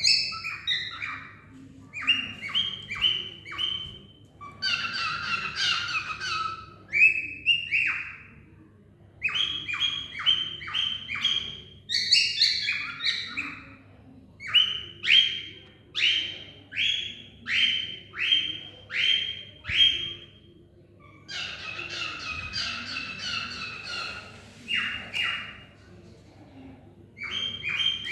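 Cockatiel calling: runs of short, shrill, repeated calls, in places about one to two a second, with brief pauses between the runs.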